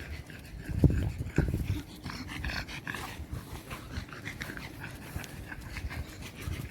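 A dog panting close by, over a low rumble, with two dull thumps about a second in.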